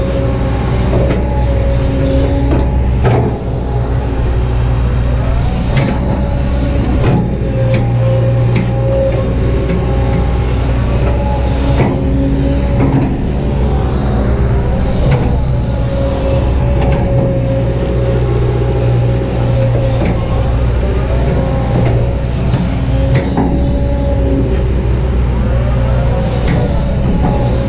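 Kobelco SK200-8 excavator's four-cylinder diesel engine running steadily under load, with a steady hydraulic whine over it. Scattered knocks and scrapes come as the bucket works the ground.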